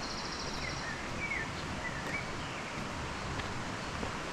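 Steady rushing of flowing river water with birdsong: a high, rapid trill in the first second, then a few short chirps.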